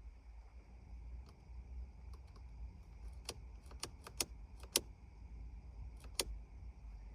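Car ignition key and dashboard controls being worked: about six sharp clicks and clinks, several in quick succession in the middle and one more near the end, over a low steady hum.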